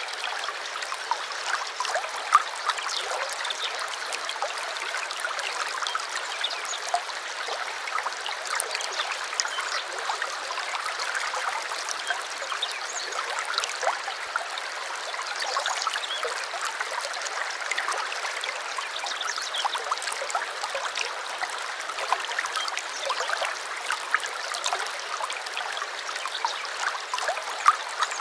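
Small stream trickling and babbling steadily, with many tiny splashes and plops in the flow.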